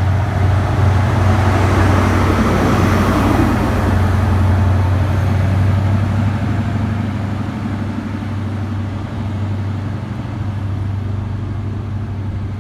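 Class 43 HST diesel power car running loudly at close range: a steady low drone under a wide engine noise, easing slightly in the second half.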